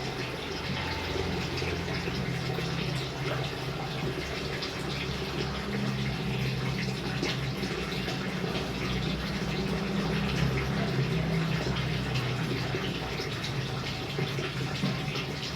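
Rain water falling and running steadily, a continuous splashing of water with fine drops ticking through it.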